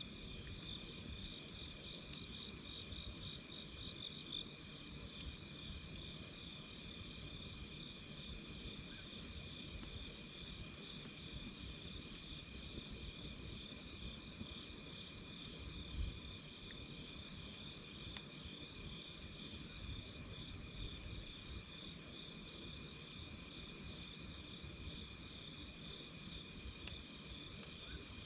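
Insects chirping in a continuous, finely pulsing trill, over a low, rough background with a single pop about halfway through.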